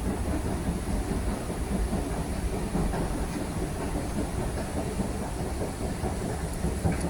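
Passenger train running on the rails: a steady low rumble.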